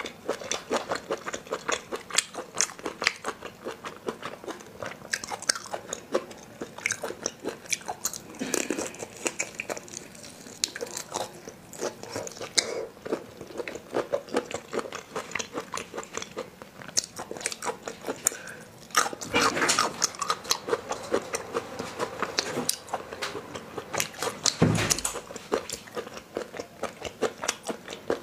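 Chewing and mouth sounds of someone eating spicy marinated raw shrimp: a steady run of wet smacks and clicks. A low thump comes twice, the stronger one near the end.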